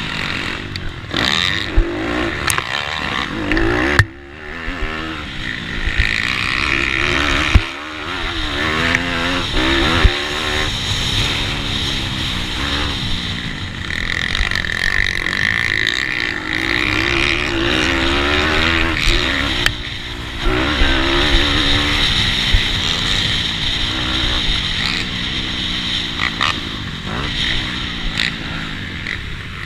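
A 160cc GPcube Lite single-cylinder four-stroke engine on a Bucci F15 pitbike racing hard, revving up and falling back again and again through shifts and corners. The throttle is shut off briefly a few times, near 4, 8 and 20 seconds in.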